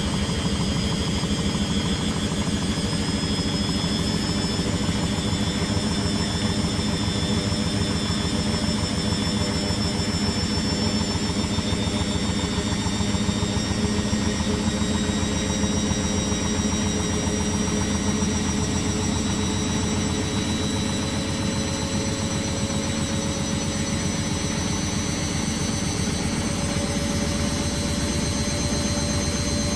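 Beko WTG620M1 washing machine spinning, its motor whining under a steady rumble, the whine rising slowly in pitch as the drum gathers speed.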